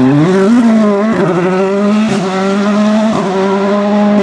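World Rally Car's 1.6-litre turbocharged engine revving up hard after a dip in revs, then held at high revs under load, with brief dips about once a second.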